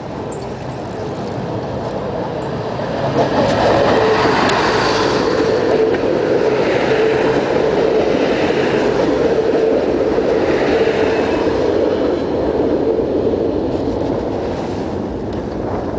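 A MÁV passenger train passing close alongside on a steel truss railway bridge: the rumble of wheels on rails with a steady hum. It swells about three seconds in and fades near the end.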